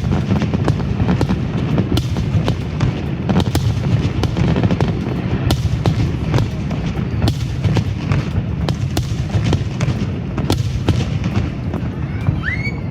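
Fireworks display: rapid, overlapping bangs and crackles over a continuous low rumble.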